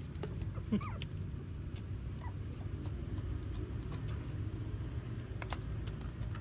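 Young puppies giving a few short squeaks about a second in, with scattered small clicks, over a steady low rumble.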